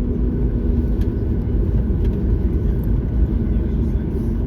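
Cabin noise inside a Boeing 737-9 MAX: a steady low rumble with a few faint ticks.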